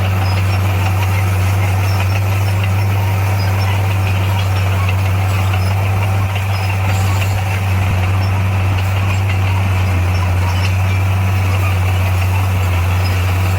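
Heavy diesel engine of a bulldozer running steadily, a deep even drone.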